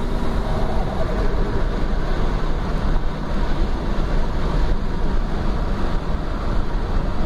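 Turbocharged car's engine and road noise heard from inside the cabin, cruising steadily at highway speed still in third gear: the automatic transmission is not shifting into fourth.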